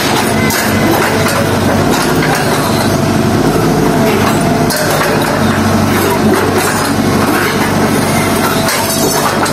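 A heavy road-works machine's diesel engine runs steadily under load, with a dense grinding and crunching noise and scattered knocks as it breaks up the road surface.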